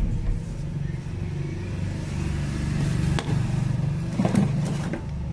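A steady low mechanical hum, with a sharp click about three seconds in and a few clattering knocks a little after four seconds.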